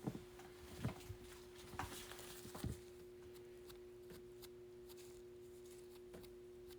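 Faint handling of trading cards and pack wrappers: a few soft taps and rustles in the first three seconds, then a faint steady hum.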